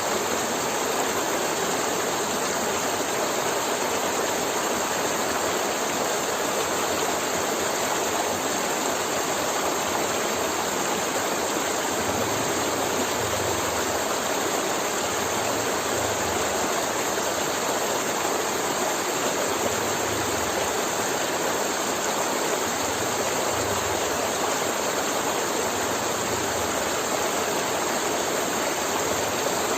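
River water flowing and gurgling over rocks, a steady rushing sound.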